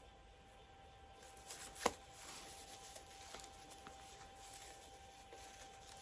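Soft rustling of a racing pigeon's feathers as the bird is handled and its wing spread out, with one sharp click about two seconds in and a few small ticks after it. A faint steady whine runs underneath.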